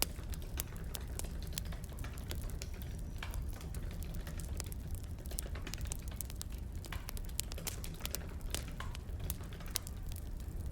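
Burning firewood crackling: irregular sharp pops over a steady low rumble.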